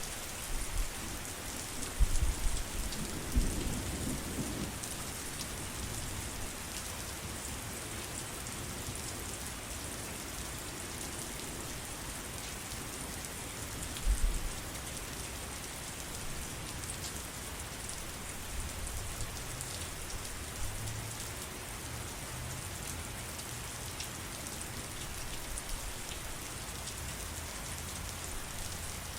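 Steady rain falling, with low rumbles of thunder about two seconds in, briefly again around halfway, and more faintly a little later.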